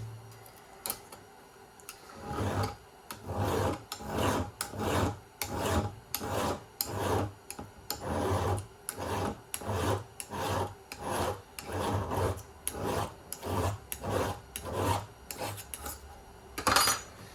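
A hand file scraping across the cutters of a chainsaw chain in a sharpening jig, in even strokes about two a second starting about two seconds in, rolling off the burr left by sharpening. A single sharp click near the end.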